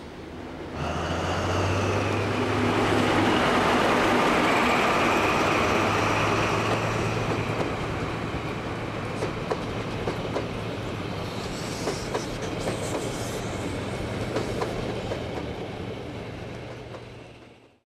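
Diesel passenger train passing, an XPT: a steady engine hum with a higher whine, then the carriages' wheels clicking over rail joints. The sound cuts off near the end.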